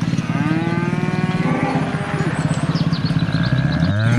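Cow mooing in one long call, with a small engine running steadily beneath it; another call starts rising near the end.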